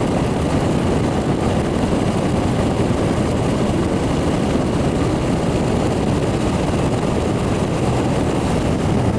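Vintage Aqua-Dri 25-pint dehumidifier (model 25A-2) running: a loud, steady rush of air and machine noise.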